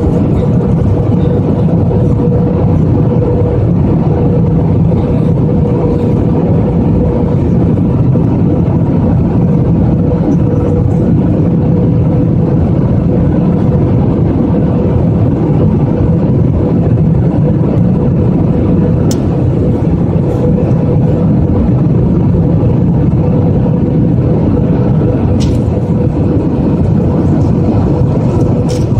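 Airliner cabin noise on approach: the steady loud rush of jet engines and airflow, with a constant hum running through it.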